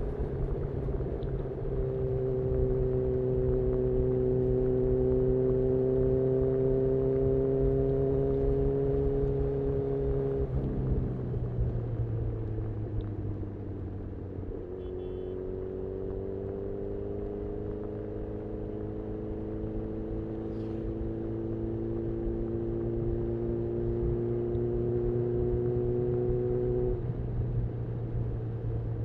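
2018 Honda CB1000R's 998 cc inline-four running through a full Black Widow exhaust while riding, heard from the rider's seat over steady low road and wind rumble. Revs ease off and drop about a third of the way in, run lower for a few seconds, then step up and climb slowly until the throttle closes again near the end.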